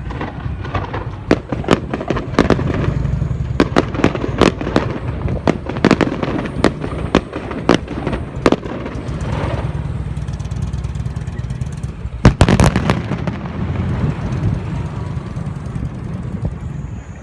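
A star mine barrage of aerial fireworks: a rapid, irregular series of sharp bangs over a steady low rumble, with the loudest cluster of bangs about twelve seconds in.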